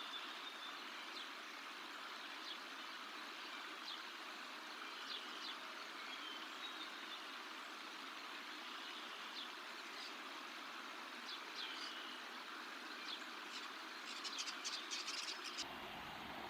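Steady outdoor hiss picked up by a nest-camera microphone, with scattered short high bird chirps and a quick run of chirps near the end. Just before the end the background shifts and a low rumble comes in.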